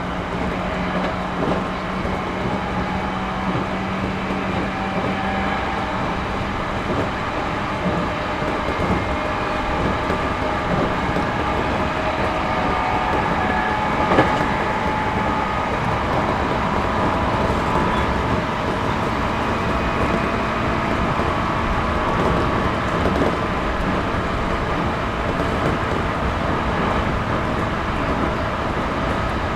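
Interior running sound of a Series 211-5000 electric multiple unit at speed: a steady rumble of wheels rolling on the rails, with a low hum that fades a few seconds in and one sharp click about 14 seconds in.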